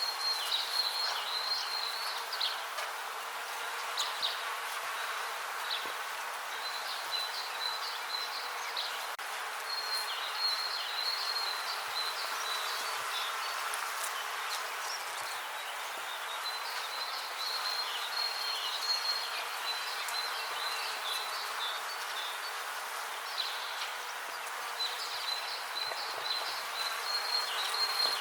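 Bees buzzing steadily in the open, with short runs of high, quickly repeated chirping notes coming and going over the buzz.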